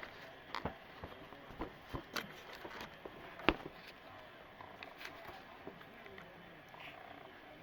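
Scattered clicks and knocks of hand tools and plumbing parts being worked during a removal job, with one sharp knock about three and a half seconds in.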